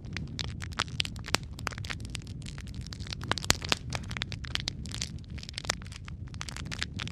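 Wood fire burning in a fireplace: a steady low rumble of flames with frequent sharp crackles and pops, one louder pop about three and a half seconds in.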